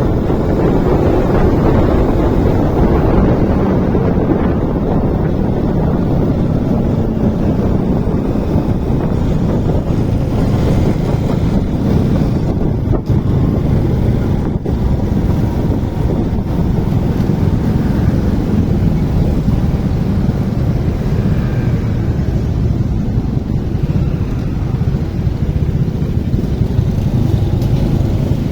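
Wind rushing over the microphone while riding a motorcycle, with the engine running underneath at a steady pace.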